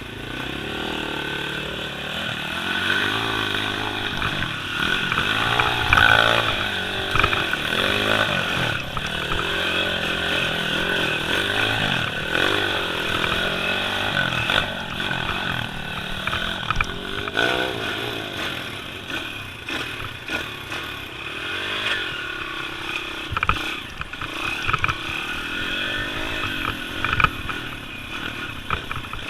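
Small-displacement pit bike engine revving up and down repeatedly while being ridden off-road, with a few short knocks in the second half.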